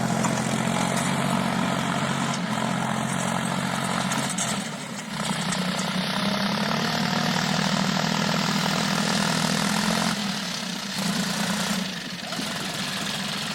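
John Deere 5050 E tractor's three-cylinder diesel engine running steadily. It dips briefly about five seconds in and drops back again from about ten seconds in.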